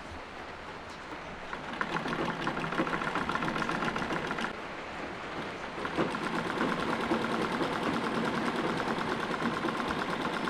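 Treadle sewing machine stitching fabric with a quick, even mechanical clatter. It starts about two seconds in, eases off for a moment around the middle, then runs again.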